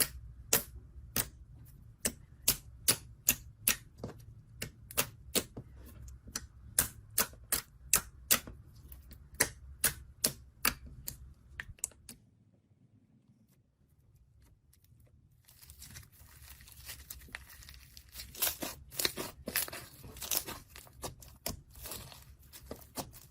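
Slime being pressed and poked, making sharp popping clicks about two to three times a second. After a short quiet pause about twelve seconds in, it turns to denser, crackly popping.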